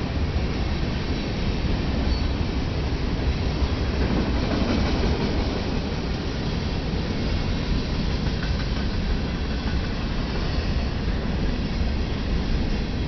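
Freight train rolling past, a steady rumble of wheels on rail.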